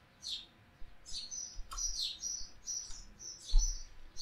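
A bird chirping over and over: short high chirps that sweep downward, mixed with brief high notes, about three a second. A low thump comes about three and a half seconds in.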